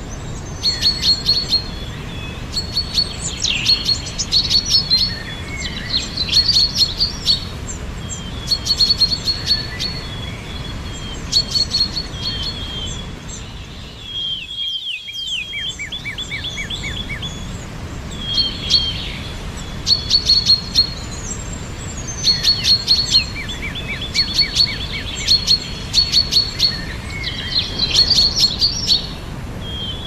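Several songbirds singing: short repeated chirping phrases and quick trills coming every second or two, over a steady low background hiss. The background noise drops out briefly about halfway through.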